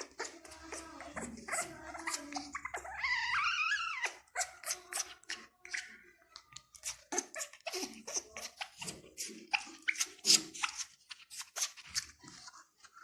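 Pet parrot making a run of sharp clicks and short chirping calls, with a louder whistle that rises and falls about three seconds in.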